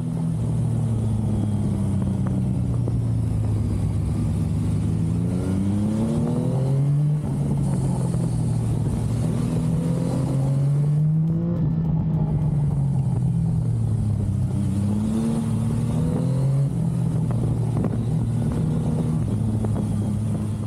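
Yamaha MT-09's 890 cc inline-three engine running under load, its pitch climbing several times as the bike accelerates and falling back in between.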